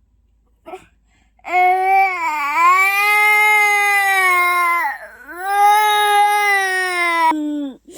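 Baby crying in two long, drawn-out wails, each about three seconds, after a brief sound near the start. The cries are those of a tired infant fighting sleep.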